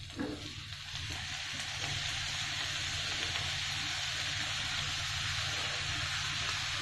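Diced tomatoes and onions frying in butter in a nonstick pan: a steady sizzle that builds over the first second or two as the wet tomato goes into the hot pan, then holds even.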